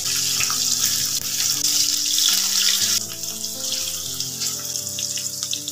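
Paneer slices sizzling as they fry in hot oil in a steel kadai, a steady hiss that drops in level about three seconds in. Soft background music with held, slowly changing notes plays underneath.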